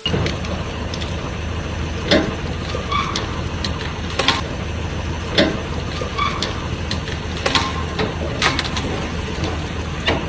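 Vehicle engine running steadily with a low hum, with frequent sharp clicks and knocks on top.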